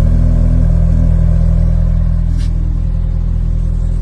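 Car engine idling steadily with a low, even hum, and a faint brief tick about two and a half seconds in.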